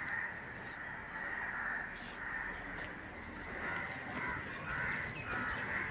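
Birds calling: a series of short calls, one every second or so, over faint outdoor background noise.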